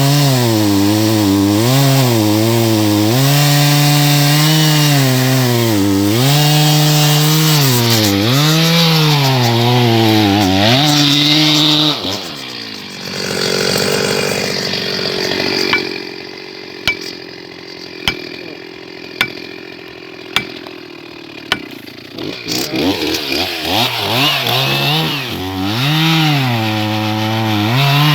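Chainsaw running hard and cutting wood, its engine pitch dipping and recovering as the chain bites into the cut. About halfway it drops back to a quieter idle, with a few sharp knocks. It then revs up and cuts again near the end.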